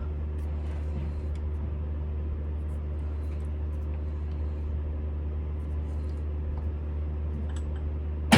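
Smithy CB-1220XL combination lathe's motor and gearing running steadily with no cut being taken: a low, even hum with a few faint ticks. A much louder sound cuts in right at the end.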